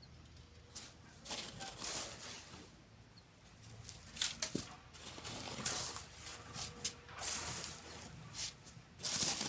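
Sand being shovelled and sifted by hand: irregular gritty scrapes and hissing pours, with a few sharper hits.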